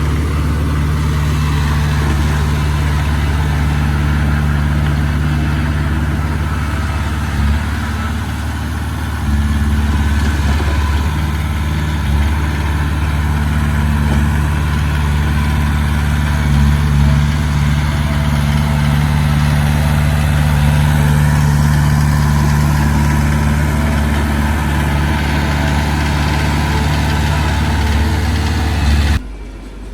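Heavy diesel engine of earthmoving machinery running steadily, easing off briefly about eight seconds in and picking up again a second later; the sound cuts off abruptly near the end.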